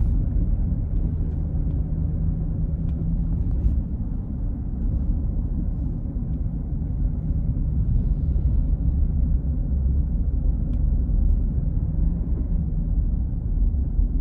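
Steady low road and engine rumble heard inside a moving vehicle's cabin, with a faint hum line at times and a few light ticks.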